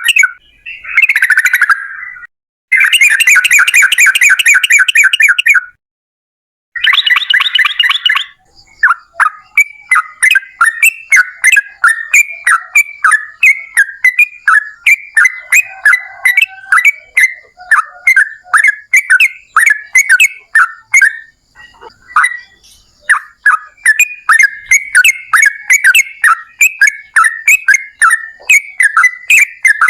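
Yellow-vented bulbul (trucukan) singing a long, fast series of short bubbling notes. Dense chattering bursts come first, broken by two brief dead silences, then a steady run of several notes a second with one short break about two-thirds of the way through.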